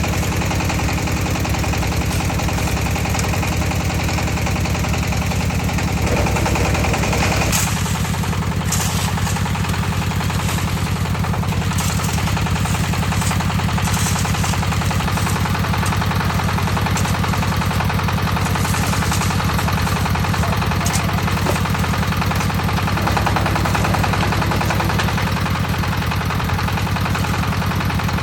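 Concrete mixer's engine running steadily with a fast, even chugging. Scraping and clattering lie over it from about seven to twelve seconds in.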